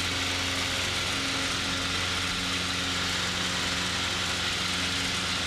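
Cessna Cardinal 177B's four-cylinder Lycoming engine and propeller running steadily at climb power just after takeoff, heard from the cockpit as a constant drone with a low hum under an even hiss.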